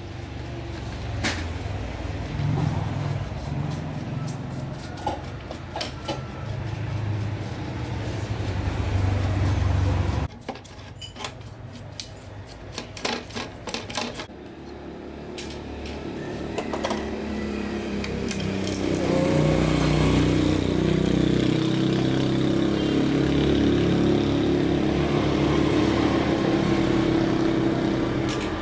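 A motor running with a steady hum, with scattered clicks and knocks over it. The hum drops away about ten seconds in, then builds again louder and cuts off suddenly at the end.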